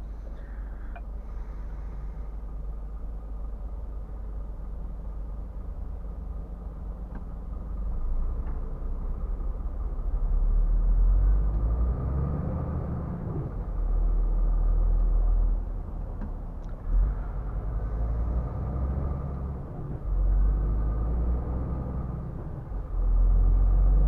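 Scania R450 truck driving on the highway, its engine and tyre noise making a steady low rumble. The rumble grows louder from about halfway through and swells and eases in surges.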